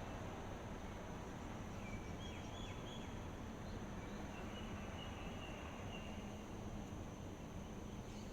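Steady outdoor background hiss with a thin high-pitched hum, and a few faint bird calls, short whistled notes, from about two to six seconds in.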